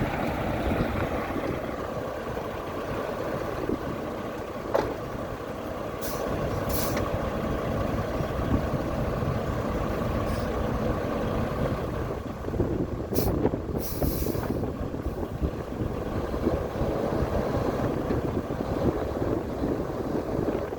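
2010 International ProStar semi-truck's MaxxForce 13 diesel engine running steadily as the truck is moved back and forth, with a few short hisses of air from the air brakes about a third and two thirds of the way through.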